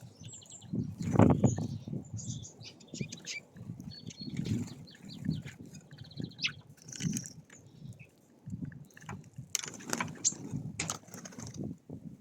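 Small wild songbirds chirping, with short calls and a few fast trills overlapping one another. Beneath them run repeated low soft thuds and rustles.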